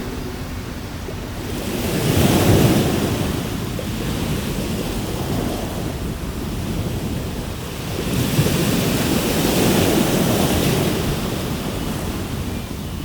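Atlantic Ocean surf: a steady wash of waves breaking on the shore, swelling about two seconds in and again for a longer stretch near the end.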